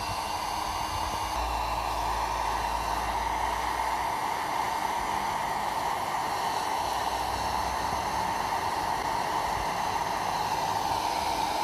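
Electric heat gun running steadily with an even, airy hiss of blown hot air, heating car paint past 300 °F to try to lift a bird-dropping mark.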